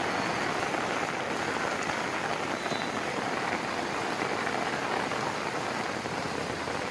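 Rain falling steadily on surfaces, an even hiss with no breaks.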